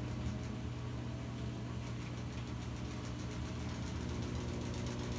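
Top-load impeller washing machine running in its spin cycle: a steady motor hum with the drum turning, not yet up to full spin speed.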